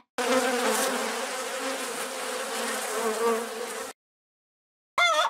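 A bee buzzing steadily for about four seconds, then cutting off. Just before the end, a hen starts clucking.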